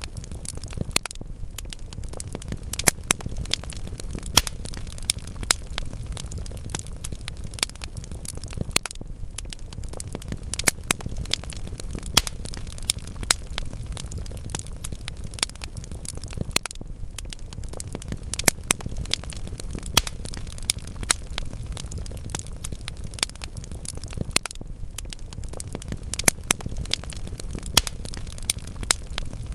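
Wood logs burning in a fireplace: a steady low rumble of flame with irregular crackles and sharp pops several times a second.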